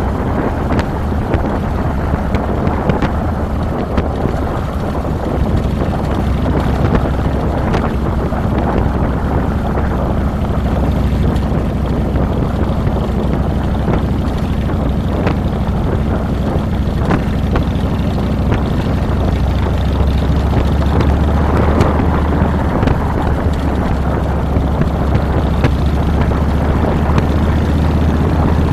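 2007 Harley-Davidson Fat Boy's Twin Cam 96 V-twin engine running steadily while riding, heard from a handlebar-mounted camera with wind noise on the microphone. The engine drone grows a little louder about two-thirds of the way through.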